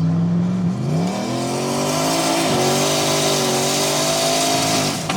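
Turbocharged 392 Hemi V8 under hard acceleration: the revs climb steeply about a second in, dip briefly midway, likely a gear change, then hold high before dropping off sharply near the end as the driver lets off the boost.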